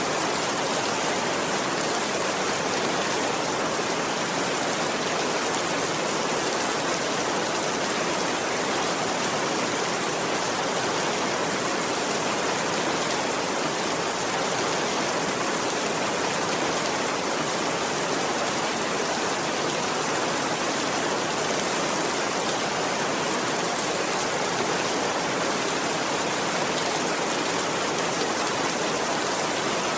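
Steady rainfall, an even unbroken hiss of many drops with no thunder.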